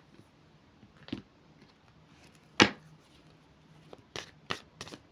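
Tarot cards being handled and laid out on a table: a few sharp card snaps, the loudest about two and a half seconds in, then a quick run of several near the end.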